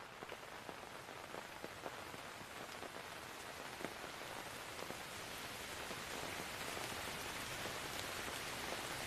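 Steady rain falling, with many distinct drops pattering on a surface, fading in and getting gradually louder.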